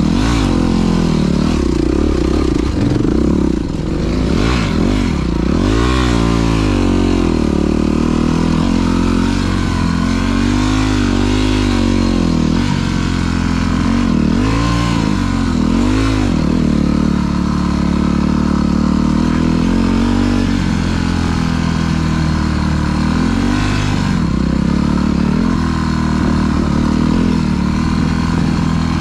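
Dirt bike engine running under riding load, its pitch rising and falling repeatedly with throttle and gear changes.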